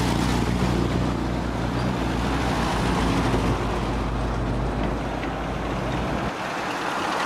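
Classic Minis, a silver Mini estate and then a yellow Mini Moke, driving slowly past over cobblestones, their small four-cylinder engines running steadily. The low engine hum drops away about six seconds in.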